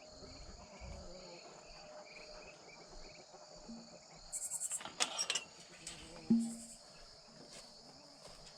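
Evening insect chorus, crickets chirring steadily at a high pitch. A few sharp clicks and knocks come past the middle, the loudest at about six seconds in.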